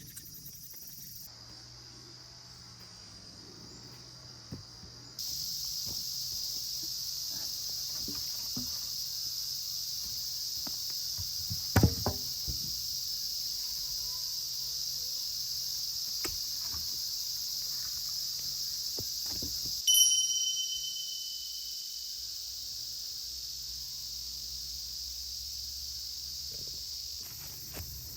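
Insects buzzing steadily in a high, even drone, with a few sharp knocks and, about twenty seconds in, a single metallic ding that rings out and fades.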